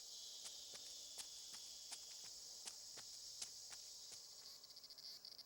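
Faint, steady high-pitched chirring of insects that breaks into a rapid pulsing trill near the end, with faint scattered clicks.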